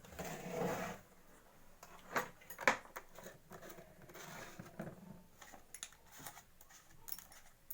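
Hand work on a small pump engine during an oil change: a short scrape in the first second, then scattered metallic clicks and knocks of parts and tools being handled, the sharpest a little under three seconds in.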